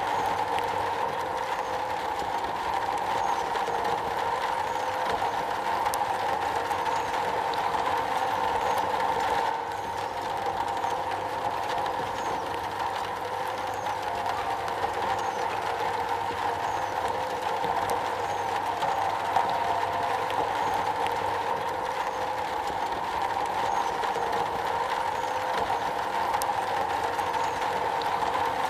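Steady rain falling on a metal roof, a dense, even patter with no let-up.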